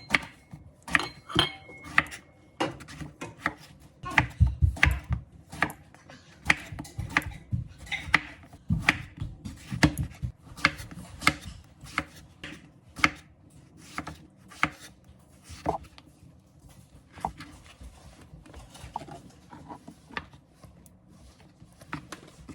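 Kitchen knife chopping food on a cutting board: a long run of quick, uneven knocks, two or three a second.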